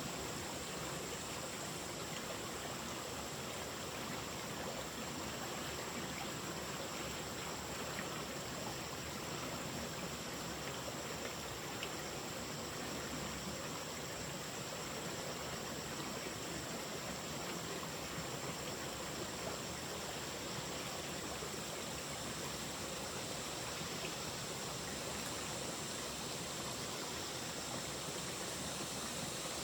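Running water rushing steadily, like a forest stream, holding the same level throughout.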